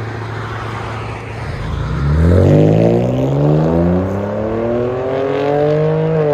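2013 Lincoln MKX's 3.7-litre V6 through a true-dual exhaust with the muffler deleted: a steady low note, then about two seconds in the revs start climbing steadily for about four seconds before dropping back near the end. The exhaust note is deep.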